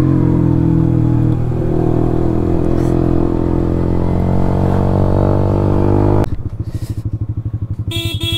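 Motorcycle engine running steadily while riding, then about six seconds in it drops suddenly to an even, fast pulsing idle as the bike rolls to a stop.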